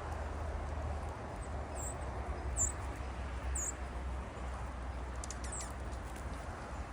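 Wild birds giving a few short, high chirps: three single notes in the first few seconds and a quick cluster about five seconds in, over a steady low background rumble and hiss.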